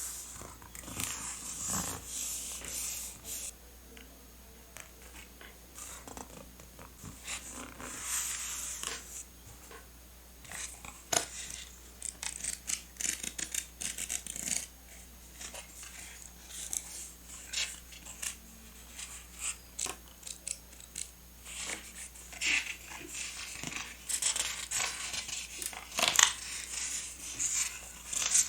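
Close-up rustling of paper and many small sharp taps and clicks from paper and stationery being handled while a journal is decorated.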